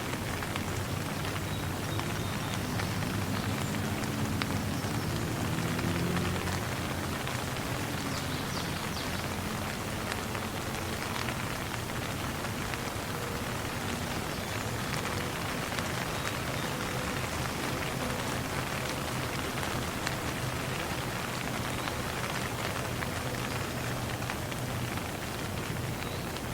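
Steady rain falling as a dense, even patter, swelling slightly louder about four to six seconds in.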